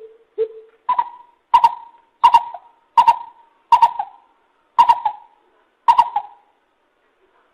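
Lesser coucal calling: two lower hollow notes, then a series of seven higher hollow notes about two-thirds of a second apart, each with a sharp onset, spacing out slightly toward the end.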